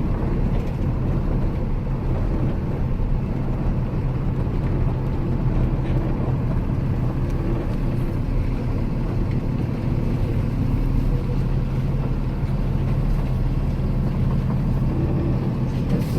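A 26-foot Penske box truck running steadily as it is driven, giving a constant low engine drone mixed with road noise.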